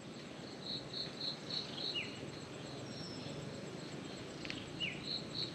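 Quiet forest ambience: a high note repeated about three times a second, in two runs, with two short falling chirps between them, from birds and insects calling.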